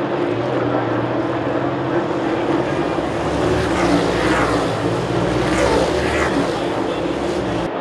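NASCAR Cup Series race cars' V8 engines running at speed, with engine pitch rising and falling as cars pass in the middle stretch. The sound cuts off abruptly just before the end.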